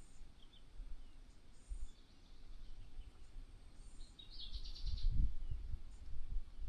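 Small birds chirping, with brief high chirps and a short, rapid trilled call about four and a half seconds in, over a low rumble.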